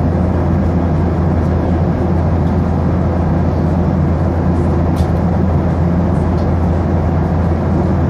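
Steady cabin drone of a Boeing 737-800 in flight: its CFM56-7B turbofan engines and the airflow, heard from inside the passenger cabin as an even, low rumble. A faint tick comes about five seconds in.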